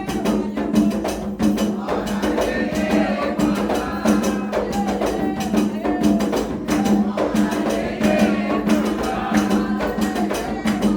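Afro-Brazilian religious chant for Xangô: voices singing over hand drums and struck percussion keeping a steady rhythm.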